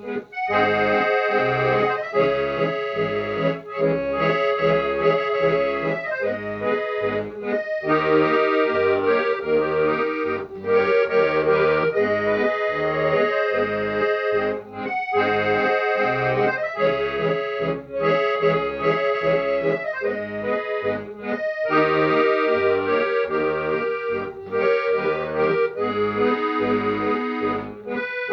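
Accordion playing an instrumental tune: a sustained melody over a rhythmic accompaniment of short, repeated bass notes and chords.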